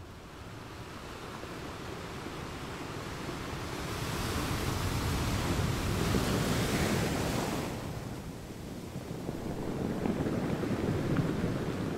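Road and wind noise from a car driving along, heard from inside the cabin: a steady rushing hiss that swells about four seconds in, eases off around eight seconds, and builds again near the end.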